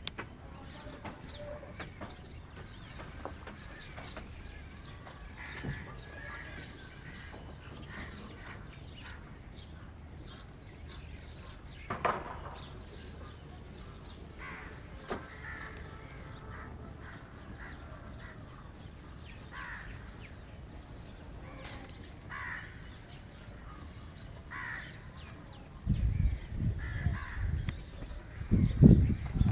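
Birds calling now and then, short caws spread through a steady low outdoor background. In the last few seconds there is a loud, low rumble on the microphone.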